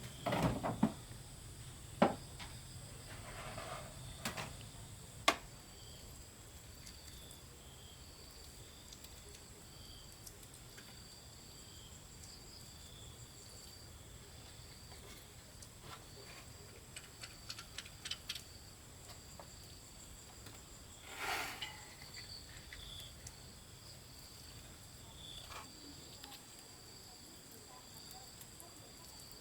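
Insects chirping steadily in a high, pulsing drone, with a few sharp knocks in the first five seconds and a short rustling burst about twenty seconds later.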